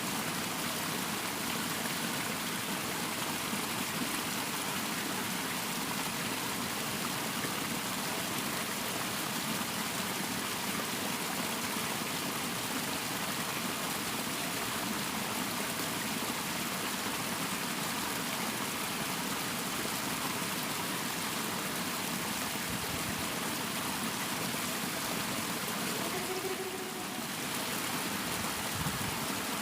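Water flowing steadily in a small irrigation ditch, a continuous rushing.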